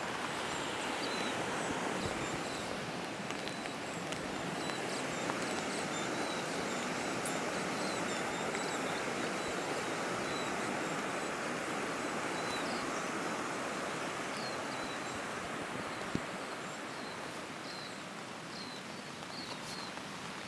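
Steady rush of a river flowing, with faint short high chirps scattered through and a single click about 16 seconds in.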